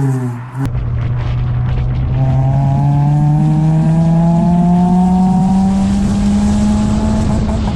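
Honda Civic EP2 engine and exhaust pulling through a gear, its pitch climbing slowly and steadily as the revs rise. A different clip's engine sound, falling in pitch, cuts off sharply less than a second in.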